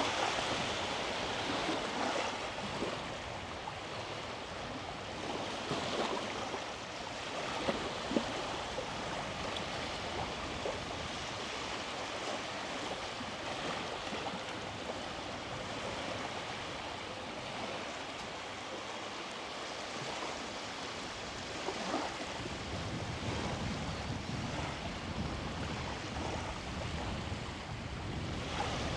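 Small sea waves washing onto the beach: a steady surf hiss that swells and eases, with wind rumbling on the microphone in the later part.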